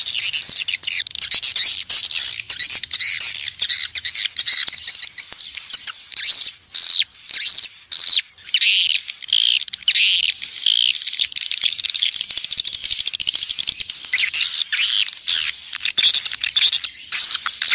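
Swiftlets twittering and chirping without pause, many high, quick calls overlapping, a little thinner for a few seconds past the middle. It is a swiftlet calling sound of the kind used to draw swiftlets to a nesting site.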